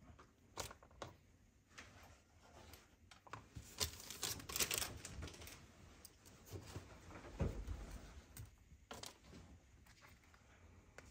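Hands unpacking and handling tablet accessories: scattered light clicks and taps, with a denser stretch of packaging rustling a few seconds in.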